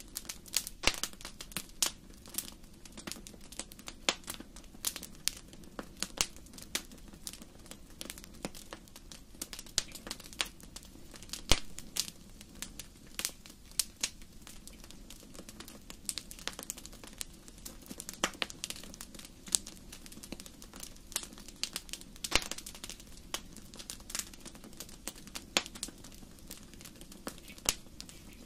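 Wood fire burning in a fireplace, crackling with irregular sharp pops and snaps over a steady low background, one pop louder than the rest about eleven seconds in.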